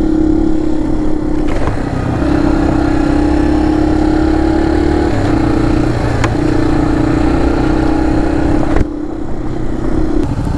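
Honda CRF100F dirt bike's single-cylinder four-stroke engine running hard under way, holding a steady pitch that breaks off briefly several times as the throttle is rolled off and on.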